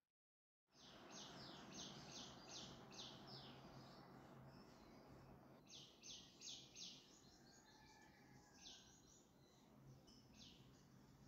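Faint birds chirping in quick runs of short high notes, over a steady low hum and hiss. The sound cuts in from dead silence just under a second in.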